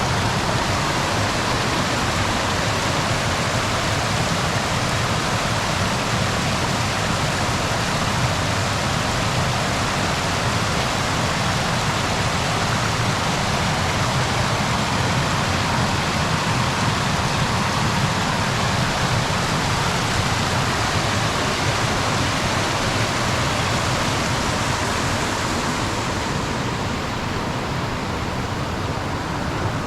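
Steady rush of falling or fast-flowing river water, a loud even hiss that thins slightly in its upper range near the end.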